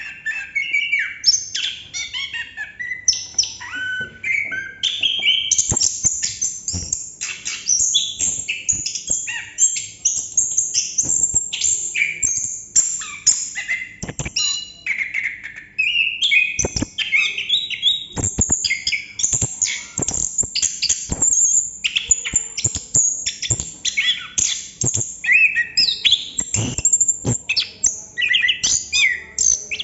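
Chestnut-capped thrush (anis kembang) singing a long, unbroken run of rapid, varied whistled and chattering phrases, the continuous rolling song that keepers call 'ngerol'. Scattered light clicks are heard among the song.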